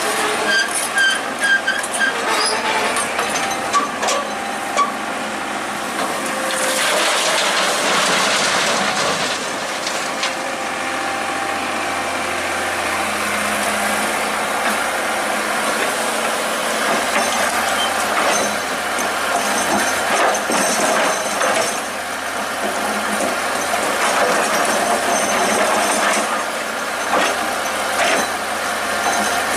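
Excavator working: its engine running steadily under load, with short high squeals and scattered metal knocks from the working machine.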